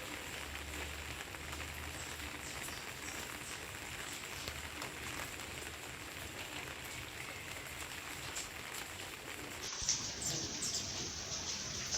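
Steady rain falling, an even patter with scattered drop ticks; the sound changes abruptly about ten seconds in, losing its highest hiss.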